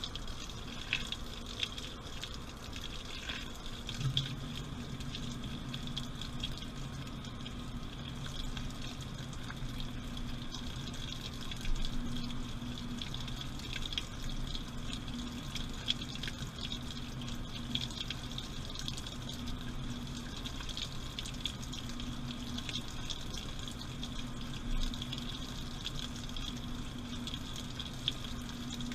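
Washing machine running mid-cycle, heard from inside the drum: water sloshing and trickling with small scattered clicks. A steady low hum comes in about four seconds in.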